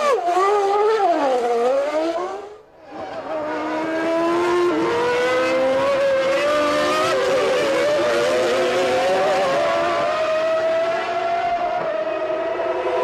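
A 1995 Formula One car's engine running at high revs. In the first two seconds its pitch wavers and falls as it slows. After a brief drop-out the pitch climbs slowly and steadily as it accelerates.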